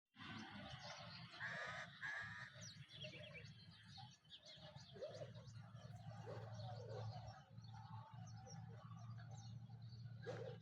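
Several wild birds chirping and singing together in a morning chorus, faint, over a low steady hum.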